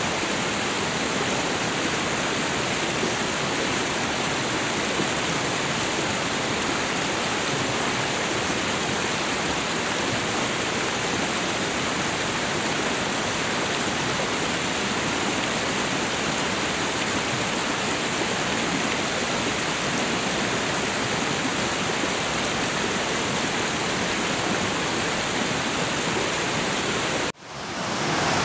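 Waterfall: a steady, even rush of falling water, cut off for a moment near the end before it picks up again.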